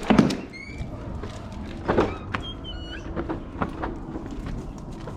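A door being opened with a loud knock, then scattered light clicks and knocks, with a few short high bird chirps.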